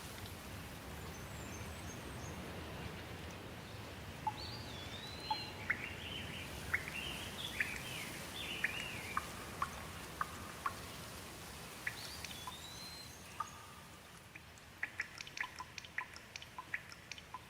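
Steady rain falling, with a bird singing a series of short whistled notes that swoop up and down from about four seconds in. The rain thins after the song ends, and a quick run of sharp ticks, like drips, closes the passage.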